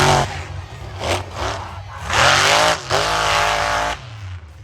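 Monster truck engine revving hard in repeated bursts, the pitch climbing with each rev; the longest and loudest rev starts about two seconds in and holds for nearly two seconds before the throttle drops off near the end.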